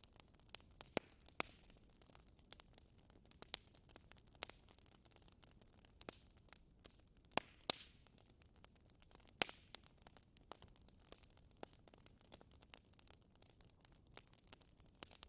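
Wood fire crackling, with irregular sharp pops and snaps over a quiet, soft hiss.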